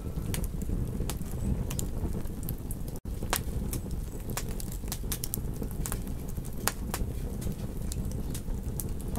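Campfire crackling: a steady low rumble of burning wood with frequent sharp, irregular pops and snaps, and a momentary dropout about three seconds in.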